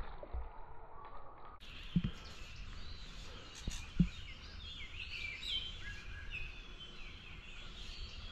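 Songbirds chirping and warbling over a steady outdoor background, with two dull thumps about two and four seconds in.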